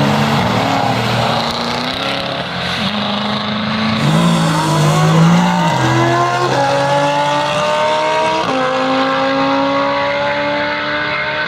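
Mercedes-AMG GT S's twin-turbo V8 revving and accelerating hard. The engine note climbs steadily, with two abrupt jumps in pitch about two-thirds in and again near the end.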